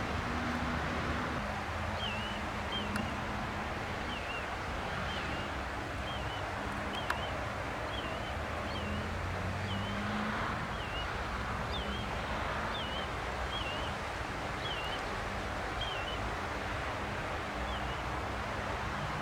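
A small bird repeating a short squiggly chirp about once a second over a steady outdoor rush of noise with a low hum. There is one sharp click about seven seconds in.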